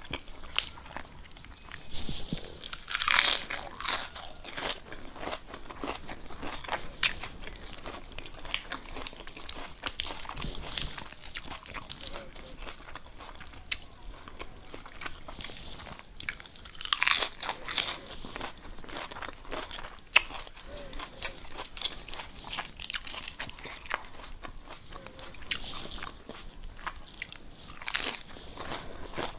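A person chewing and biting food close to the microphone, with many small wet clicks and a few louder bites.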